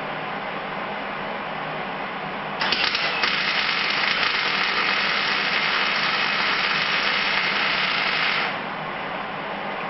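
MIG welder arc on sheet steel: a short burst about two and a half seconds in, then a steady crackling buzz for about five seconds as a bead is run on the bed floor patch, cutting off abruptly. A steady low hum underneath throughout.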